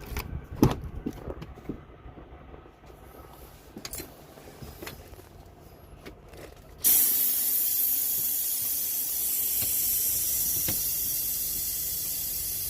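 A few clicks and knocks, then compressed air from a semi truck's air system hisses on suddenly about seven seconds in and keeps hissing steadily and loudly.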